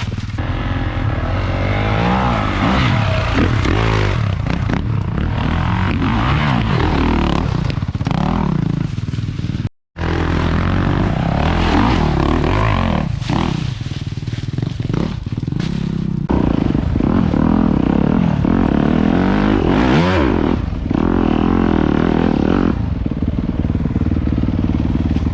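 Dirt bike engine revving hard, its pitch rising and falling again and again as the throttle is worked. The sound drops out for an instant about ten seconds in.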